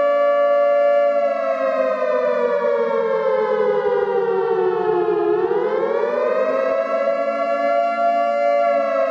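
Wailing emergency-alert siren tone: held at one pitch, it slides slowly down for about four seconds, then swings back up and holds again, over a steady lower drone.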